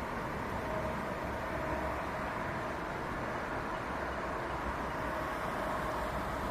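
Steady road traffic noise, an even rumble of passing cars.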